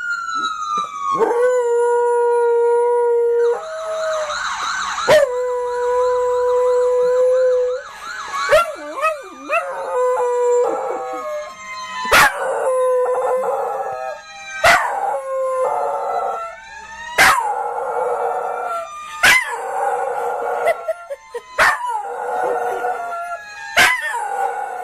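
A boxer dog howling along with a fire truck siren. The siren holds steady tones and warbles quickly for a few seconds. The dog's long rising-and-falling howls take over in the second half, broken by sharp clicks every two to three seconds.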